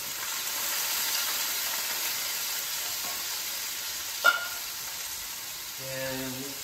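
Bamboo shoots frying in a hot wok, a steady sizzle, with a single sharp clink about four seconds in.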